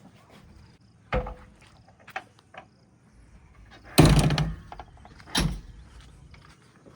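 Rocks dropping into a steel tractor trolley: three heavy clanking impacts, the loudest about four seconds in with a short rattle after it, and smaller knocks in between.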